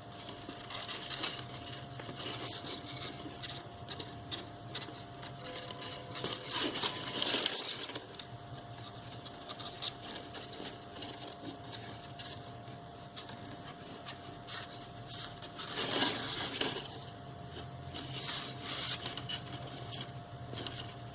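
Paper and thin card being handled while glue is applied: light rustling, scraping and small taps, with louder rustling about seven seconds in and again about sixteen seconds in. A faint steady hum runs underneath.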